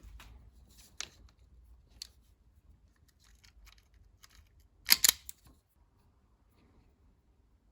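Sharp snips and clicks of a small hand cutting tool working insulation off damaged trailer-harness wires, the loudest a quick double snip about five seconds in.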